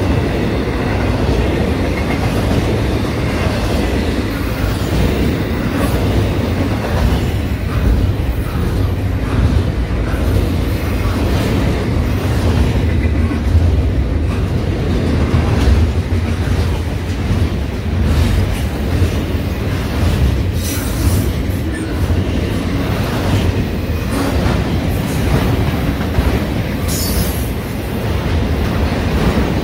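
Double-stack intermodal freight train cars passing close by: a steady, loud rumble of steel wheels on rail with clickety-clack from the trucks. Brief high-pitched bursts stand out twice in the latter half.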